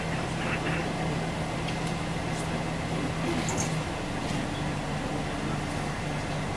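Scania OmniLink CL94UB city bus heard from inside the passenger saloon: its diesel engine hums steadily while under way. The engine note drops a little under four seconds in and picks up again soon after, with a few light rattles from the body.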